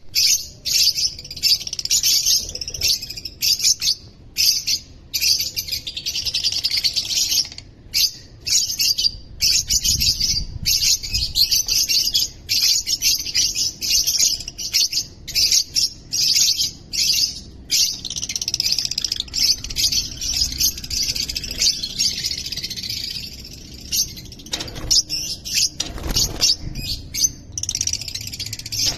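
Blue Fischer's lovebirds chattering, a near-continuous run of shrill, rapid chirps broken by short pauses.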